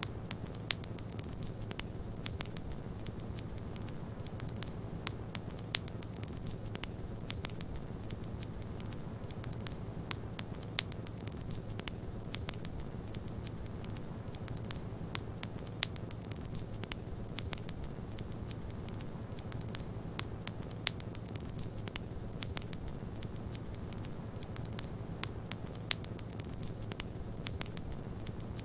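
Wood fire in a fireplace crackling, with irregular sharp pops, a dozen or so louder than the rest, over a steady low rushing noise.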